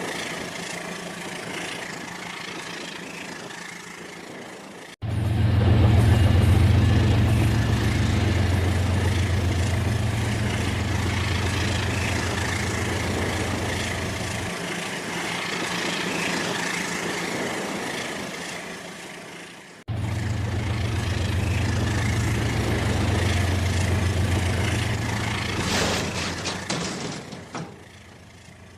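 Model train running on its track: a steady motor hum with wheel and rail noise, cut off abruptly and restarting about 5 and 20 seconds in.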